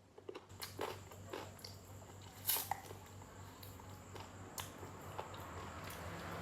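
A person biting and chewing food, with scattered crisp crunches; the loudest crunch comes about two and a half seconds in.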